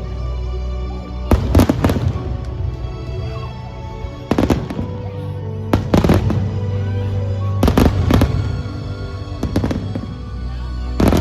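Fireworks bursting in quick clusters of bangs every second or two, over music with a steady, heavy bass.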